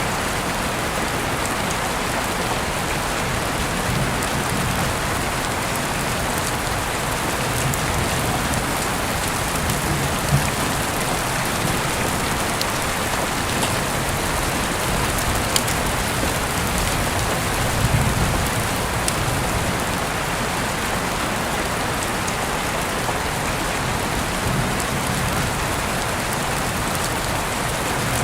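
Heavy rain falling steadily, a continuous hiss with a few sharper drop impacts standing out now and then.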